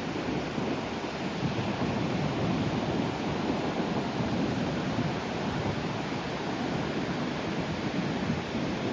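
Sea surf washing onto the shore in a steady, even rush, with wind buffeting the microphone.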